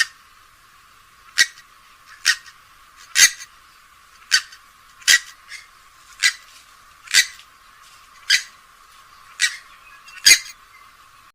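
Recorded rail calls: a series of short, sharp, clicking notes, about one a second, from a swamphen- or moorhen-type bird played as a lure call.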